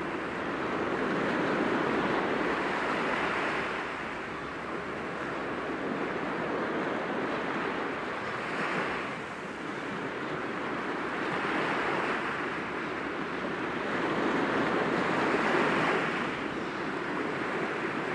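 Sea waves breaking gently against rocks, a steady wash of surf that swells several times as successive waves come in.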